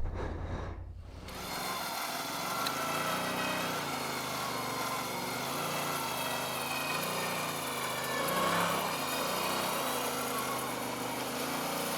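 Off-road vehicle engine revving up and down again and again as the machine works through soft, rutted ground with its wheels spinning.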